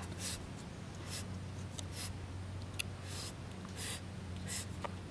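Close-up chewing of crisp star fruit, short crunching sounds repeating about every 0.7 seconds, with a couple of sharper crisp clicks.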